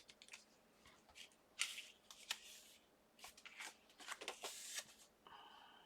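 Faint rustling and light taps of paper and card stock being handled, in short scattered bursts.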